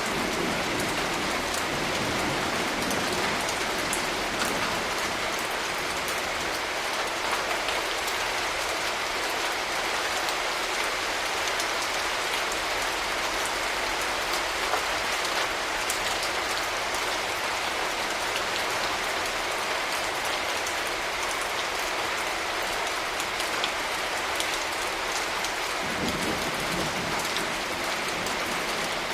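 Steady rain falling on surfaces, an even hiss full of fine drop ticks. A low rumble sits under it for the first few seconds and returns near the end.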